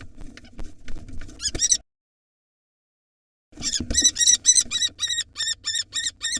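Scuffling knocks in a wooden nest box, then after a pause of about two seconds a rapid series of shrill, repeated calls, about four a second, from a common kestrel in the middle of a fight with barn owls.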